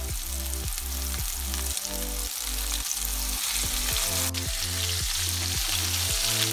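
Flour-coated minced-meat meatballs sizzling in hot oil in a frying pan over high heat, a dense steady crackling hiss, with one sharp tick about four seconds in. A low, evenly repeating pulse runs underneath.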